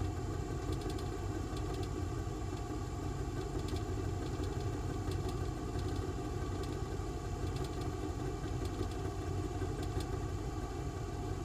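A steady low mechanical rumble with a constant hum, engine-like, unchanging throughout.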